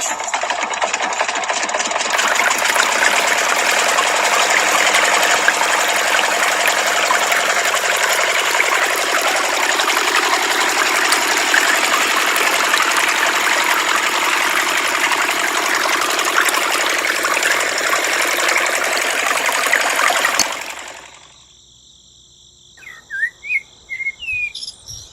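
A small motor-driven machine running with a dense, fast rattling whir, which stops abruptly about twenty seconds in. Birds chirp near the end.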